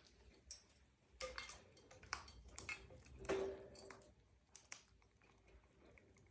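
Faint, scattered clicks and small taps from a parrot, with a brief soft pitched call about three seconds in.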